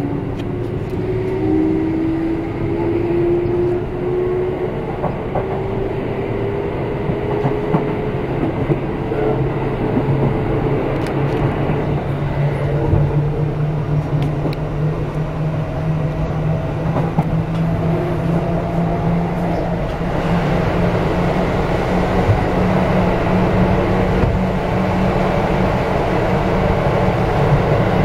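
Kintetsu 1420 series prototype VVVF-GTO inverter whining as the train accelerates slowly, its tones climbing gradually in pitch, over the running noise of the wheels on the rails.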